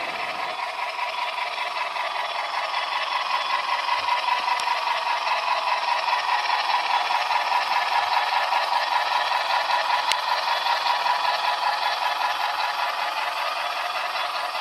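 O gauge model train, an MTH SNCF 141P 2-8-2 locomotive hauling carriages, running on the track with a steady metallic rattle and clatter that pulses quickly and evenly. It grows louder over the first few seconds, then holds.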